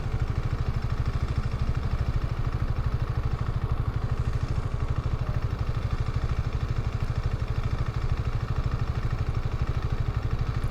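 Motorcycle engine running steadily with an even, rapid low pulse and no change in speed.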